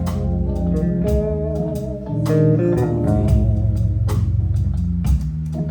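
Live band music with no vocals: sustained organ notes and a bass line, electric guitar and a drum kit keeping time.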